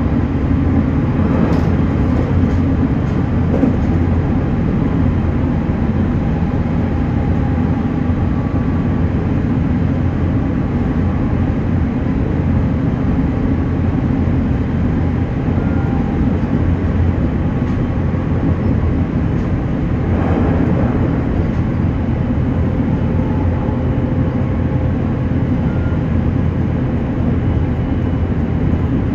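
JR Kyushu 813 series electric train running at speed, heard from on board: a steady rumble of wheels on rail with faint humming tones above it, swelling briefly twice.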